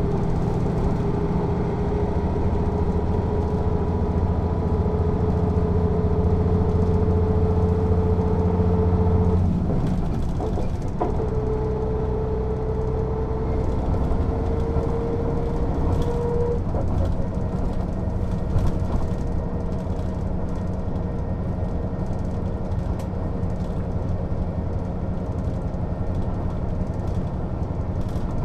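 Mercedes-Benz O 407 city bus diesel engine pulling away. Its pitch climbs steadily, dips briefly at a gear change about a third of the way in, and climbs again. After a second shift a little past halfway it settles into steady running.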